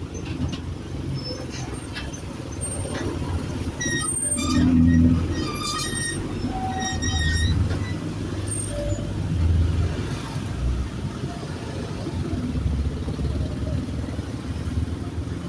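City bus engine running low and steady as a bus pulls in, swelling about five seconds in, with a cluster of short high squeaks between about four and seven seconds in.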